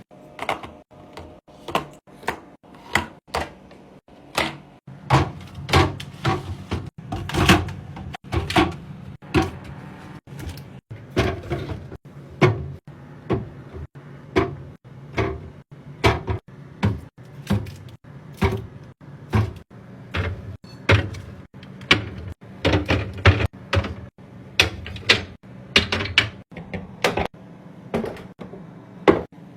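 Refrigerator being organized: a long string of clunks and knocks as containers, jars and shelves are handled and set in place, about one to two a second.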